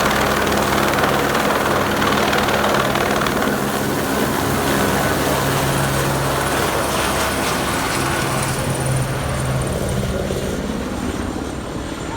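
Helicopter's rotor and engine running steadily overhead, slowly growing fainter over the last few seconds.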